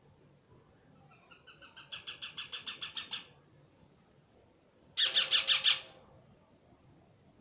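Pet parrot calling in two rapid pulsed bursts: a chattering run about a second in that grows louder, then a shorter, louder call about five seconds in.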